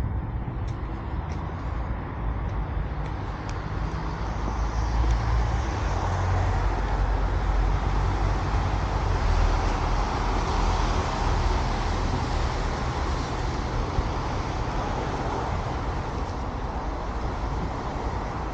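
Road traffic noise, a steady hum of cars, rising as a vehicle passes through the middle and easing off again.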